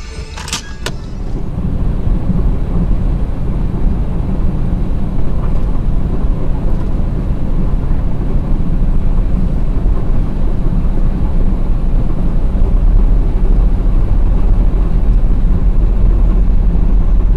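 Steady low rumble of a moving car, road and engine noise, growing louder over the first two seconds and then holding. There are two sharp clicks about half a second in.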